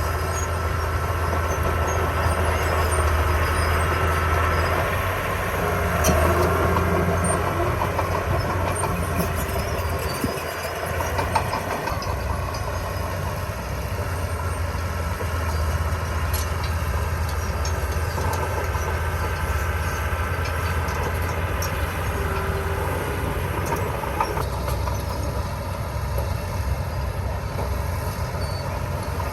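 Komatsu D20P small bulldozer at work: its diesel engine runs steadily throughout, with a few short knocks or clanks along the way.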